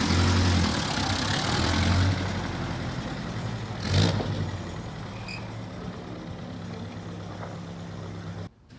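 The 1962 Jeep M170's four-cylinder F-head engine running as the Jeep is pulled up, a little louder at first and then settling to a steady idle, with a brief noisy rush about four seconds in. The sound cuts off suddenly near the end. The engine is freshly rebuilt, and the owner says it has a rod knock.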